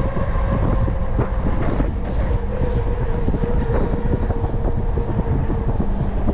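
Lectric XP Lite e-bike being ridden: a steady whine from its rear hub motor over heavy low wind rumble on the microphone, with scattered small rattles and clicks from the bike.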